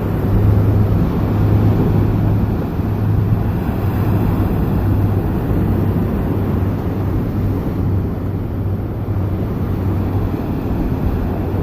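Motorboat engines passing, a steady low drone mixed with noise.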